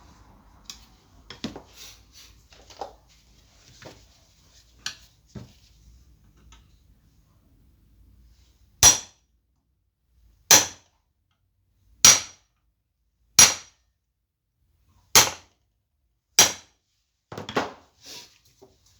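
Hammer blows: six sharp, evenly spaced strikes about a second and a half apart, followed by a quicker cluster of knocks near the end, after some lighter clicks and knocks of tools being handled.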